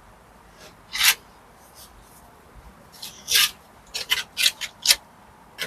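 Hand scraping strokes against brickwork, rasping and short: one stroke about a second in, a longer one a little past the middle, then a quick run of five near the end.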